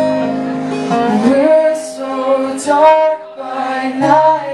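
Live acoustic band music: acoustic guitar strumming under a voice singing long, gliding notes.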